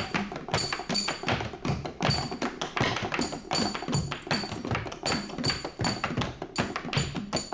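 Music from a bass, drums and guitar rock band, driven by fast, busy percussion hits several times a second with a recurring high ringing tone over them.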